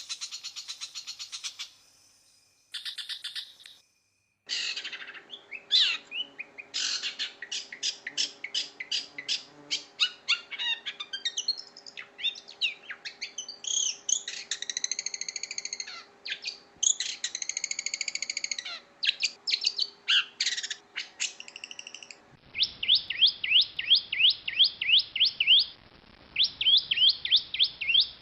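Long-tailed shrike (cendet) singing a varied song of fast chattering trills and clear whistled phrases. It is made of spliced recordings: short trills at the start, a pause, a long varied stretch over a faint steady hum, then from about three-quarters of the way through a rapid series of repeated rising notes.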